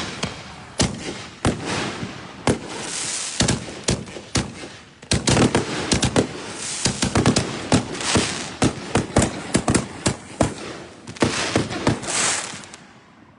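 Consumer canister aerial shells fired from mortar tubes in quick succession: dozens of sharp launch and burst bangs overlapping at irregular intervals, with stretches of crackling hiss from the breaks. The barrage stops shortly before the end.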